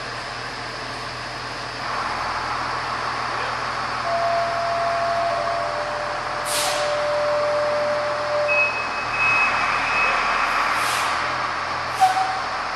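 Fire truck running steadily, with three short sharp hisses of released air, one about halfway through and two near the end, and a few brief steady tones.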